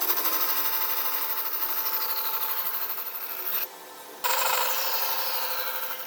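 A handheld power tool working wood, run twice with a short pause just over halfway through. A faint whine falls in pitch during each run.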